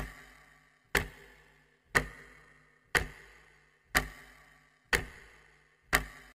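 Clock-like ticking sound effect, one tick a second, seven ticks in all, each with a short ringing tail: a quiz countdown timer.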